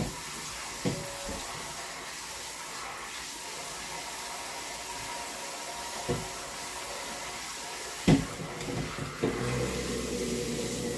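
Steady hiss with a few sharp knocks, as of things being set down in a kitchen; about nine seconds in, a steady low machine hum starts.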